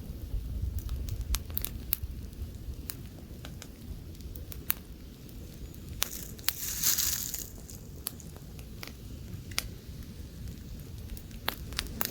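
Wood campfire burning, with irregular sharp crackles and pops over a low rumble of light wind. About halfway through comes a brief, louder hissing surge.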